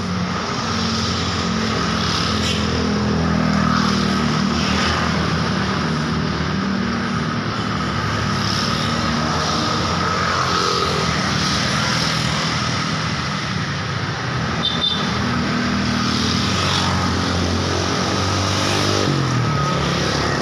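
Road traffic passing with engines running continuously. Near the end, one engine's pitch drops as it goes by.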